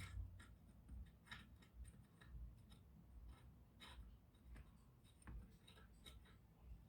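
Near silence with faint, irregular small clicks and taps scattered through.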